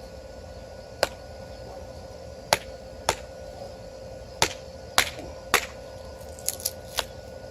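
Ozark Trail axe striking wood as a stick is chopped and split: six sharp, separate strikes about half a second to a second and a half apart, then three lighter, quicker taps near the end.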